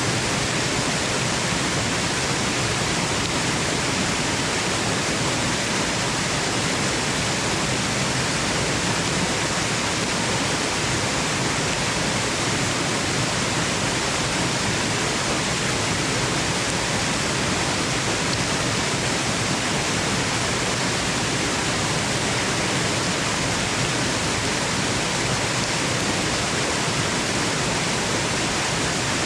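Waterfall: falling water rushing in a steady, even hiss, with no single splashes or changes standing out.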